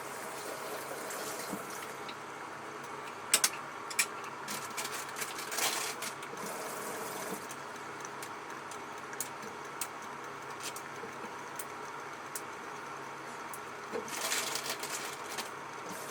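Kitchen worktop sounds over a steady background hum: a few sharp clicks and knocks of utensils, the loudest two close together about three and a half seconds in, and a short scraping or rustling stretch near the end.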